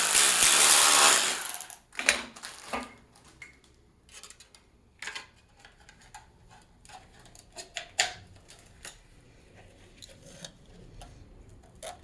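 Rapid ratcheting for about the first second, a ratchet tightening a piston ring compressor around a piston, followed by scattered faint clicks and knocks of metal tools and parts being handled.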